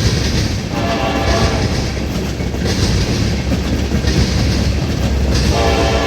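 A train passing, its wheels rumbling and clattering, with a locomotive air horn sounding from about a second in and getting louder near the end.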